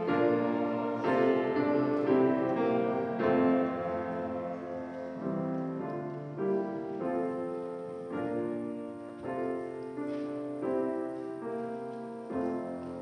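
Piano playing slow, sustained chords, each struck and left to ring, growing gradually quieter.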